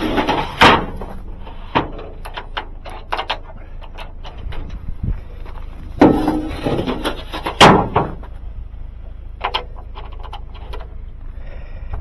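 A series of knocks and bangs, with three loud ones: one just after the start, then two about six and seven and a half seconds in. Smaller clicks fall between them, over a steady low rumble.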